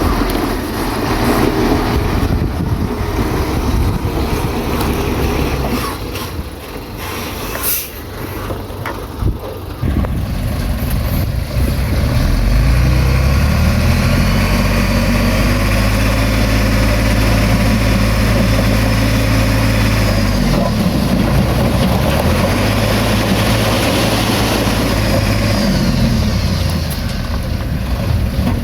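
Heavy earthmoving machine's diesel engine running. It settles into a loud, steady drone about twelve seconds in, drops in pitch briefly around twenty seconds and climbs back. Earlier there is a quieter stretch with a few sharp knocks.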